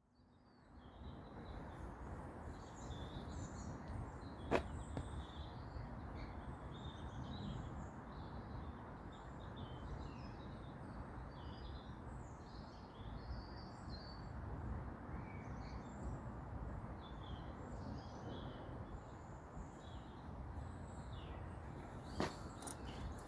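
Songbirds chirping and singing in short scattered phrases over a steady low background rumble of outdoor noise. A sharp click sounds about four and a half seconds in, and another near the end.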